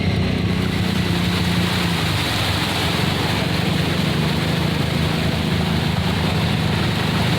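ATV engine running steadily under throttle while wading through water, with a constant hiss of churned water and spray over the engine note.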